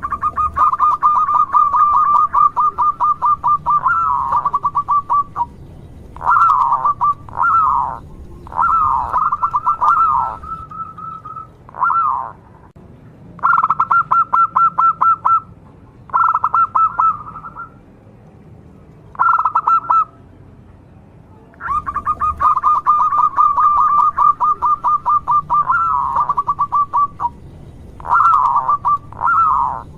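Local zebra dove (perkutut) calling over and over: bursts of rapid staccato cooing notes, some running on for several seconds and others short, with brief pauses between bursts.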